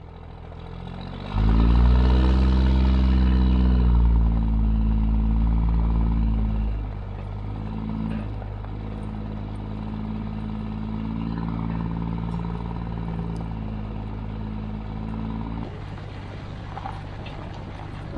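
Truck engine running, loudest and rising and falling in pitch with the revs in the first few seconds, then settling to a steadier, quieter run.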